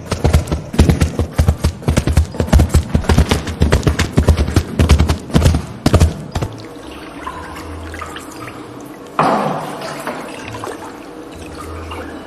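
Water sounds: a quick, irregular patter of drips for about six seconds, then a quieter trickle, with a pour starting suddenly about nine seconds in and tailing off.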